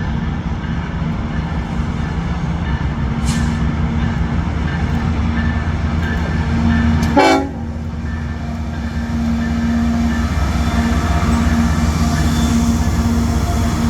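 Diesel-hauled freight train passing close by: a steady heavy rumble of locomotives and freight cars with a held droning tone. A short, loud burst about seven seconds in is the loudest moment.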